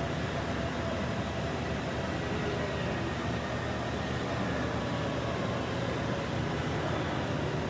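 Steady low rushing noise of a boiler firing during its fire test, with a faint hum on top and no change in level.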